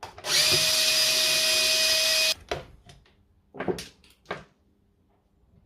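Hilti AG230S angle grinder motor running for about two seconds, then cutting off suddenly, followed by a few short knocks and clicks.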